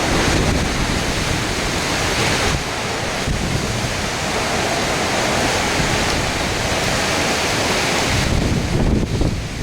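Hurricane wind gusting with heavy rain, a loud continuous rushing that swells and eases, the gusts buffeting the microphone with a low rumble.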